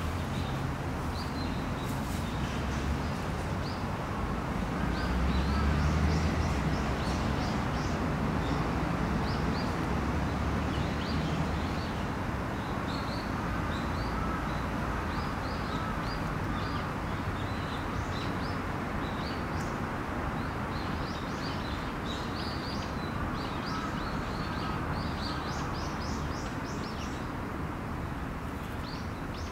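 Small birds chirping in short, scattered calls over a steady outdoor background noise, with a low rumble swelling about five to seven seconds in.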